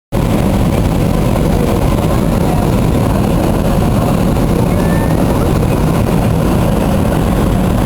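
Steady, loud drone of an airliner's engines and rushing air, heard from inside the passenger cabin as the plane descends.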